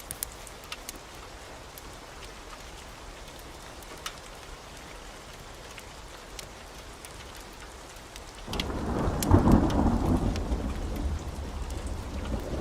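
Heavy steady rain with scattered sharp ticks. About eight and a half seconds in, thunder breaks in as a sudden deep rumble, loudest about a second later, then slowly fades while the rain goes on.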